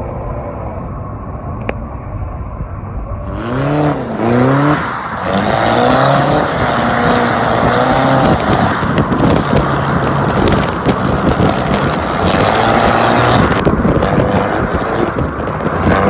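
Car engines revving hard during drifting, the pitch climbing and falling in repeated surges, over a steady rush of tyre and road noise. The sound changes abruptly about three seconds in, where one clip cuts to another.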